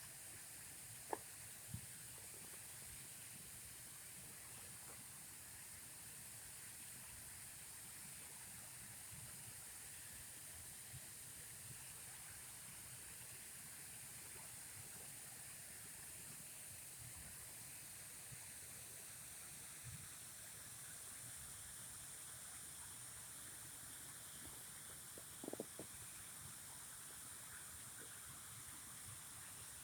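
Faint, steady hiss of running water, with a few soft clicks about a second in and again near the end.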